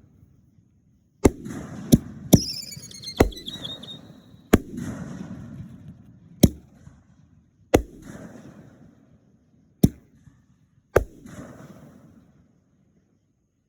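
Aerial fireworks shells bursting: about nine sharp bangs at irregular intervals, each followed by a rumbling echo. A falling whistle follows the third bang.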